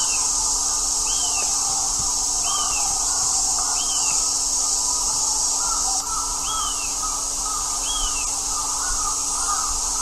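Outdoor ambience: a bird repeating a short rising-and-falling call about every second and a half over a steady high-pitched hiss.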